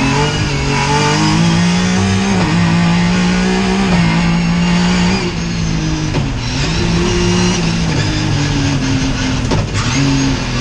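Racing car engine under hard use on a slalom course. Its pitch holds high for stretches, then drops and climbs again several times, around 2.5, 5, 6 and 9.5 seconds in, as the driver lifts, shifts or brakes and gets back on the throttle.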